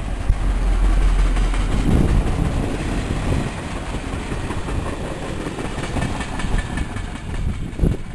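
Passenger train passing on the line, a steady rumble and rush of wheels on rail with a faint whine rising out of it near the end.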